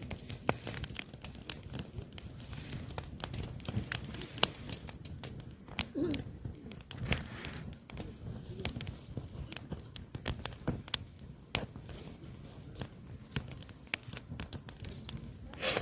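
Oak firewood burning, crackling with irregular sharp pops and snaps.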